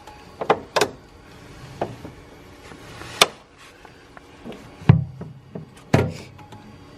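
A handful of sharp clicks and knocks, about five, spaced irregularly, from the jump starter's clamps being worked onto the battery terminal.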